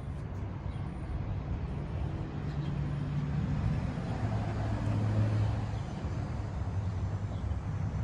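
Low, steady drone of a motor vehicle engine running nearby, its pitch shifting slightly in the middle.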